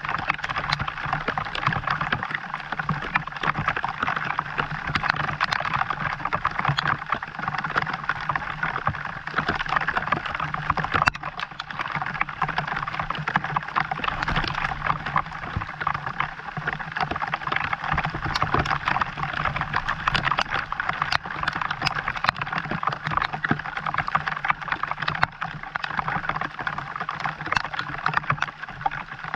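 Steady rain falling, a dense stream of small drop hits with a faint low hum underneath.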